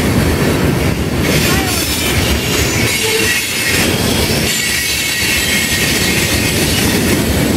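Freight train of covered hopper cars passing close by: a loud steady rumble of wheels on rail, with a high wheel squeal setting in about a second in and holding.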